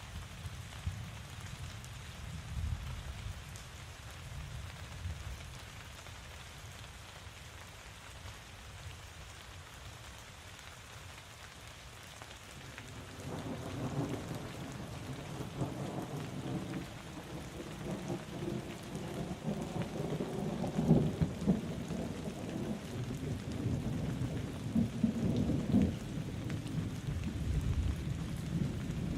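Steady rain falling, with a low rumble of thunder under it that swells into a longer rolling peal from about halfway through, loudest in the last third.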